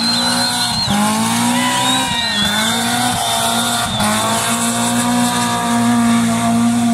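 Rally car engine revving hard through gear changes, its pitch climbing and falling back at each shift. Over the first half, tyres squeal with a high, thin whine in two long stretches.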